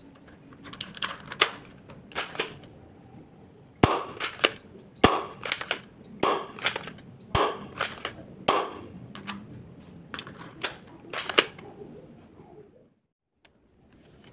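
Spring-powered airsoft gun being cocked and fired over and over: a run of sharp snaps and mechanical clacks, some in quick pairs, that stops about three seconds before the end.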